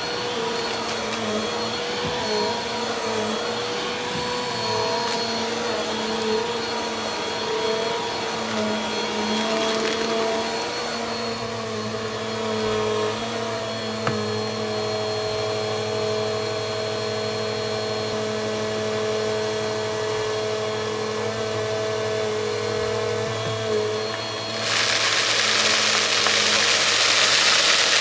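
Bissell vacuum cleaner running, a steady motor whine over rushing air. A few seconds before the end, the air hiss suddenly grows louder and brighter.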